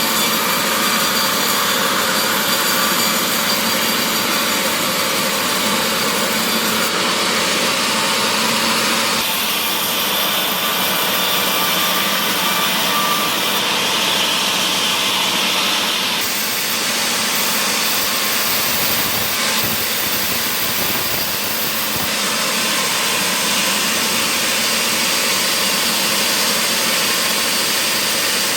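Woodworking machinery in a mahogany-processing mill running with a loud, steady mechanical noise. The sound changes abruptly three times, about a third of the way in, a little past halfway and again later.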